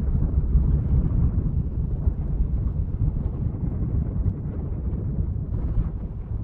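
Wind buffeting the microphone: a dense low rumble that eases off slowly toward the end.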